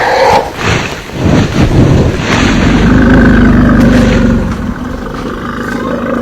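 Fighting elephants roaring, loud and low and rough, with one long held roar in the middle.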